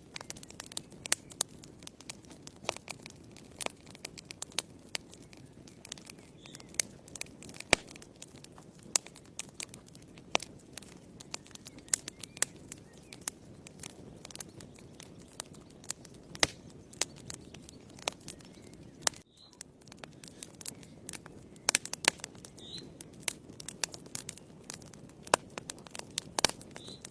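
Wood fire in a fireplace crackling, with many irregular sharp pops and snaps over a steady low rush of the flames.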